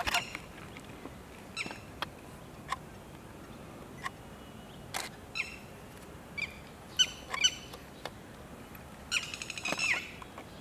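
Birds calling: short, high chirps at irregular intervals over a quiet background, with a quick run of calls near the end.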